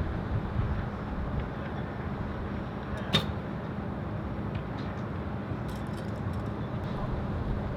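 Wind buffeting the microphone outdoors, a steady rumble with a faint low hum, broken by one sharp click about three seconds in.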